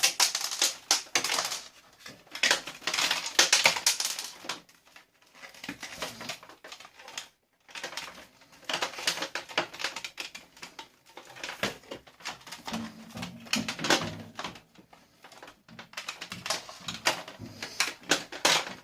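Plastic and metal parts of a vacuum cleaner clicking and rattling as it is taken apart by hand, in rapid irregular bursts with short pauses.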